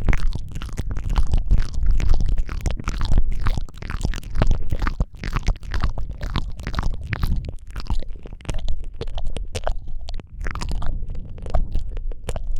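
Close-miked wet mouth sounds: a steady run of lip smacks and tongue clicks over a heavy low rumble from breath close on the microphone, a little sparser near the end.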